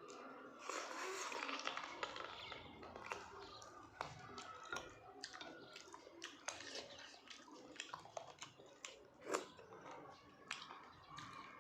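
Close-up eating sounds of a person chewing meat and dhindo: a steady run of small mouth clicks and smacks, with one sharper click about nine seconds in.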